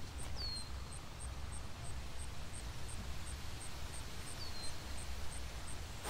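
Quiet woodland ambience: a steady low wind rumble, with two short high bird calls that fall in pitch, one just after the start and one about four and a half seconds in.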